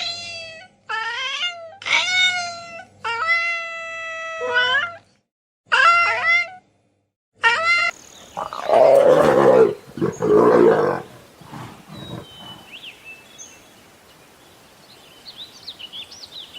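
A domestic cat meowing several times, one call long and drawn out, then two loud, rough roars from a big cat a little past halfway. Faint bird chirps follow near the end.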